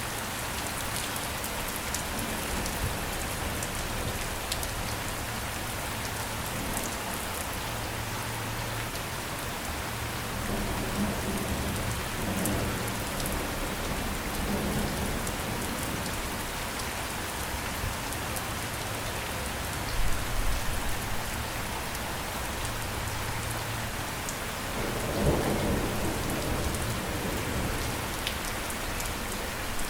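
Steady rain falling, with thunder rolling in several times; the loudest thunder comes about twenty and twenty-five seconds in.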